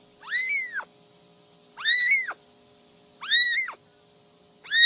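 A cat meowing four times, about one and a half seconds apart. Each meow is high and short, rising and then falling in pitch.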